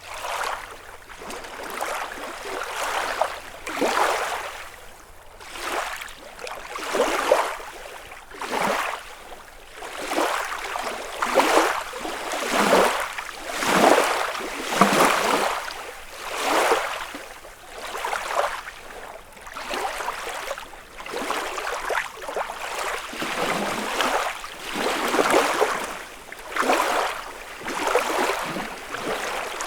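Small lake waves washing onto the shore of Lake Kussharo one after another, a fresh wash about every second.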